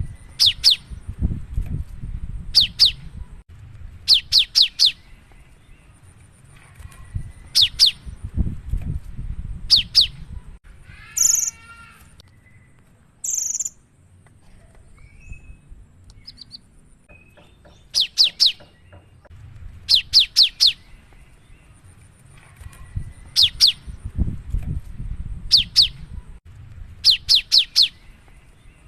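Cinereous tit (gelatik batu) singing: repeated short phrases of two to four quick, sharp falling notes every second or two, broken about halfway through by a different chattering call and a brief high whistle. A low rumble sits underneath.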